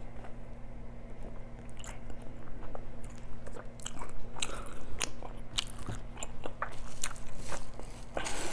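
Close-miked eating: biting and chewing food with crunches and wet mouth clicks, over a steady low hum. A rustle comes in near the end.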